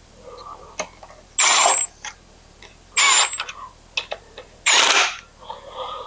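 A ratchet wrench spun in three quick bursts about a second and a half apart, with small clicks between them, as bolts are run in snug before torquing.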